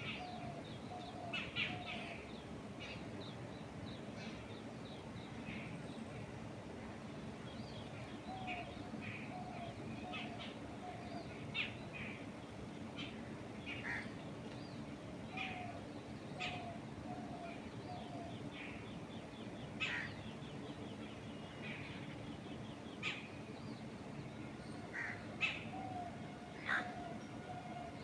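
Outdoor birdsong: many birds chirping with short high notes scattered throughout. Every several seconds one bird gives a run of four or five lower calls in a row. Steady wind noise runs underneath.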